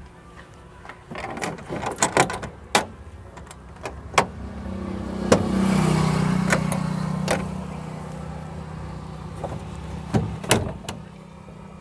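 Sheet-metal side panels of an old truck's gull-wing bonnet being swung down and shut, giving a series of sharp metal clanks and knocks. A low engine hum swells and fades in the middle.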